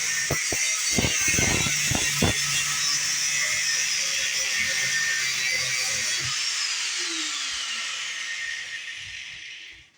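Angle grinder grinding down welds on a steel exhaust, a steady high hiss with a few low knocks in the first couple of seconds. Near the end its pitch falls and it winds down and stops.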